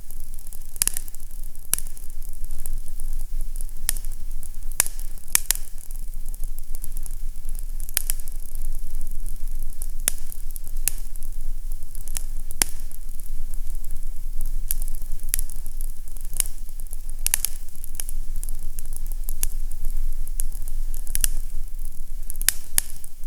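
Fire crackling in a fireplace: sharp, irregular pops about once a second over a steady low rumble and hiss.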